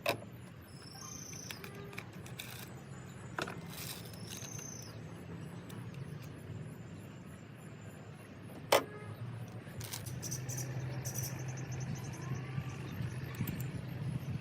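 Metal hand tools clinking and knocking on an engine while a diesel injector is fitted: a few sharp metallic knocks, the loudest about nine seconds in, over a steady low hum.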